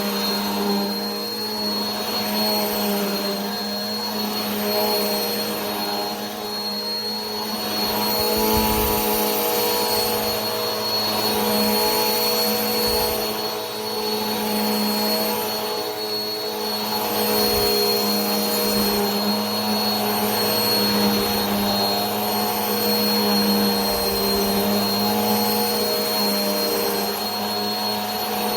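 Vacuum cleaner motor running steadily, a continuous whirring hum with a thin high whine over a rushing hiss of air, swelling and easing slightly in loudness now and then.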